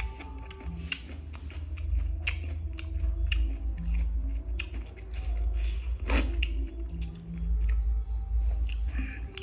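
A person chewing a mouthful of green papaya salad: a run of wet clicks and crunches.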